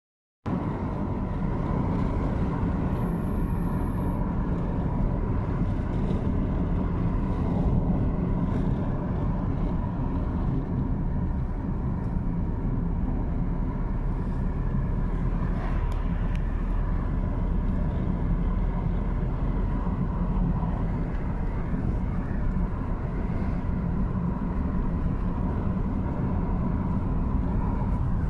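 Car driving at a steady speed: continuous road and engine noise, heavy in the low end, with a faint steady whine over it.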